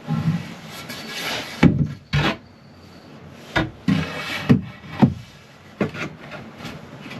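Irregular wooden knocks, thuds and scrapes: plywood pieces being handled, fitted and set down during cabinet and bed building.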